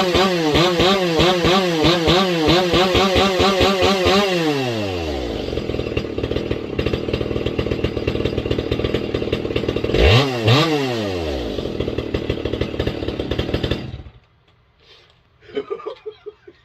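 Ported Echo CS-670 two-stroke chainsaw with an aftermarket pipe in place of its muffler, held at high throttle with its engine speed wavering up and down about twice a second, then dropping to idle about four seconds in. It idles, is revved up and down twice about ten seconds in, and shuts off abruptly near the end. The owner thinks he may have tuned it a little too lean.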